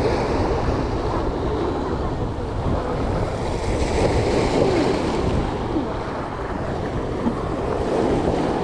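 Steady wind buffeting the microphone, over the wash of sea waves.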